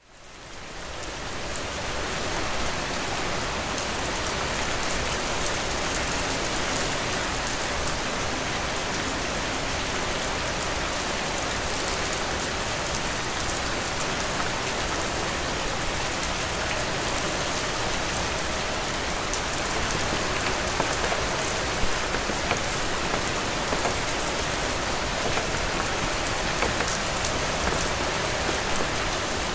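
Heavy rain falling steadily, a dense hiss of drops with scattered sharper drop impacts. It fades in over the first couple of seconds, then holds level.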